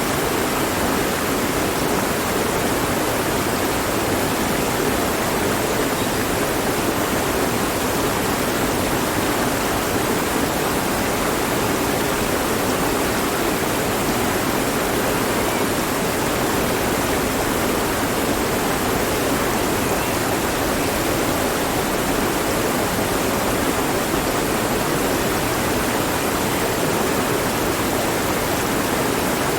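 Mountain stream flowing over rocks, a steady rushing of water with no changes.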